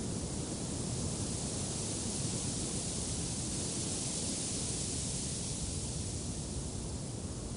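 Steady rushing wind, rising gently in the middle and easing again near the end.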